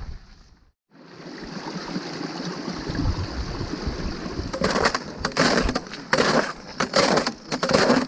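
Wind rumbling and buffeting on the microphone. From about halfway through, boots crunch in snow at a steady uphill walking pace.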